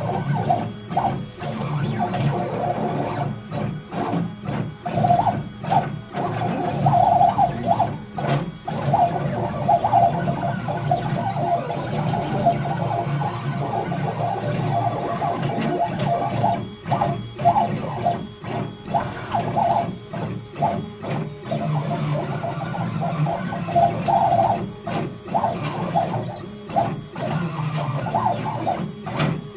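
CNC machine's stepper motors humming as they move a drag knife through rigid foam board, stopping and starting in short moves every second or so.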